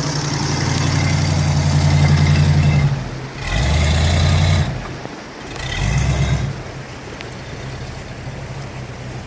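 Ford 460 big-block V8 of a 1979 Bronco revving hard under load in three surges, then easing back to a lower, steadier run, as it climbs out of a creek in four-wheel drive.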